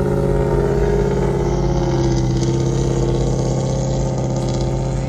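Car engine running with a loud, steady low rumble, its pitch wavering only slightly.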